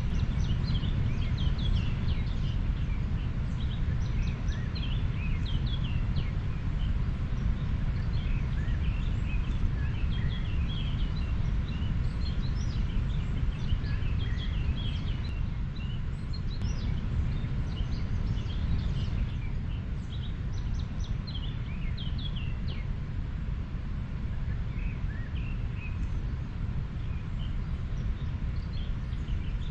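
River water flowing steadily, a low even rush, with small birds chirping often over it.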